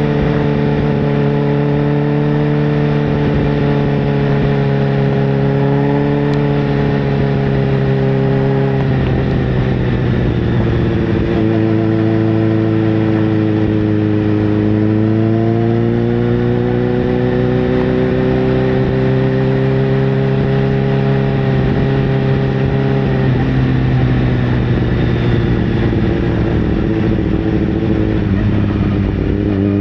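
Sportbike engine running at steady revs, its pitch sagging and climbing slowly a few times with the throttle, with abrupt changes in engine note about nine seconds in and again near the end.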